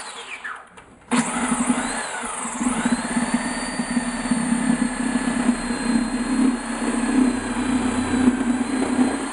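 A corded electric power tool's motor switches on about a second in and runs under load while cutting down a whole turkey's backbone. Its whine dips and recovers in pitch as the blade bites, then runs steadily.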